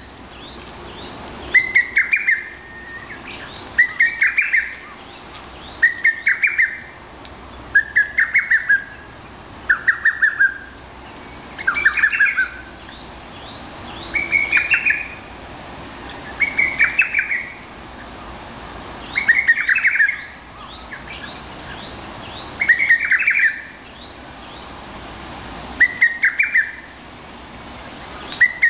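Lesser cuckoo (hototogisu) singing its short, fast phrase of five or six notes over and over, about every two seconds, some twelve times in all.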